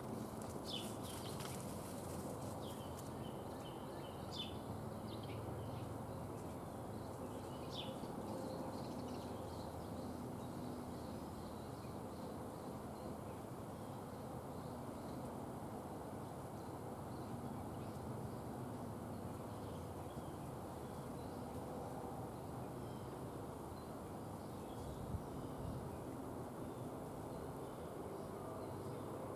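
Small songbirds at a feeder giving a few short, high chirps in the first several seconds, over a steady outdoor background noise that runs throughout.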